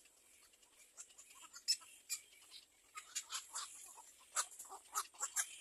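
Nestling birds begging for food with short, high chirps, a few scattered at first, then coming fast and thick from about three seconds in.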